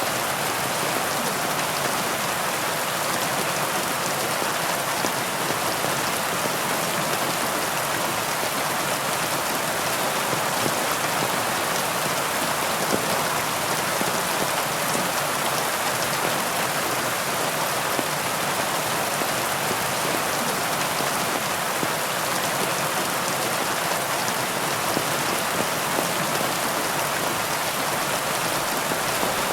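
Steady heavy rain, a dense hiss of drops with fine patter from individual drops hitting a surface.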